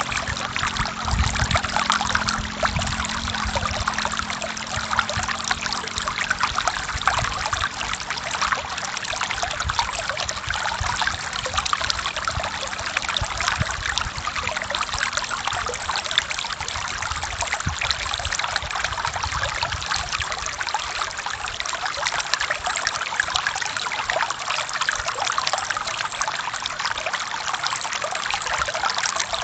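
Forest stream flowing steadily over rocks, a continuous babble of trickling and splashing water.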